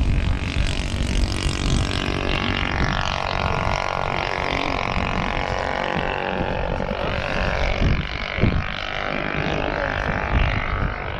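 Radio-controlled model aircraft engine droning in flight, its pitch sliding up and down as it passes and manoeuvres, with wind gusting on the microphone.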